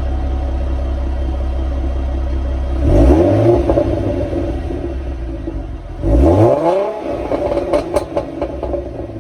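2014 Ford Mustang's 3.7-litre V6 through its stock exhaust and muffler, idling and then revved twice, about three seconds in and again about six seconds in. Each rev rises quickly and falls back to idle, and a few crackling pops follow the second one.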